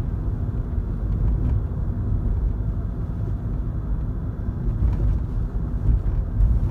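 Suzuki Swift 1.3 on the move, heard from inside the cabin: a steady low rumble of engine and road noise.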